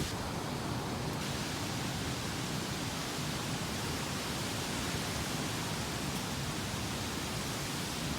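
A steady, even hiss of noise spread across all pitches, with no tone or rhythm in it.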